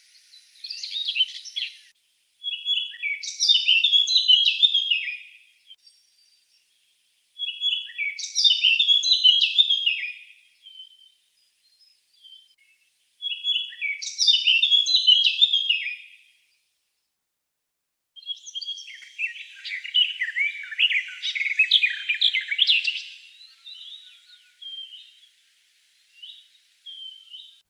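Eurasian blackcap singing: repeated warbling song phrases of about three seconds each, a few seconds apart, the last one longer and more rambling. Before it, the end of a common whitethroat's song, cut off about two seconds in.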